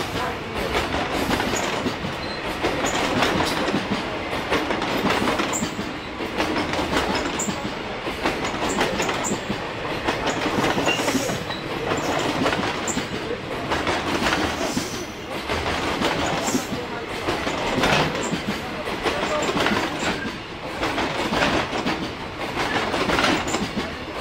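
A long freight train of container wagons passing at speed, a steady rumble of wheels on rail with clacks coming in repeated groups as each bogie crosses the rail joints.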